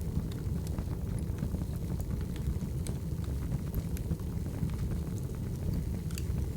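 Wood fire burning: a steady low rumble with irregular sharp crackles and pops, several a second.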